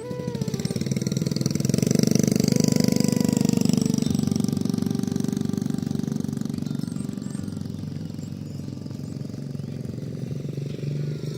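A small engine running with a rapid, even chugging, loudest from about two to four seconds in and then easing off.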